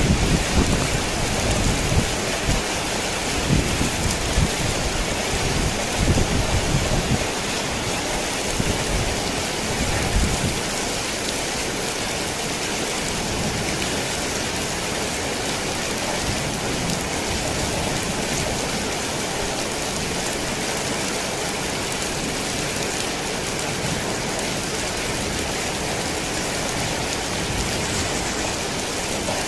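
Torrential rain falling steadily on a tin roof. Thunder rumbles through roughly the first ten seconds and dies away, leaving only the rain.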